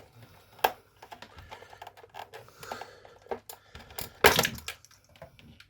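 Plastic housing parts of a coffee machine clicking and clattering as they are handled during disassembly, with a sharp knock under a second in and a louder clatter about four seconds in.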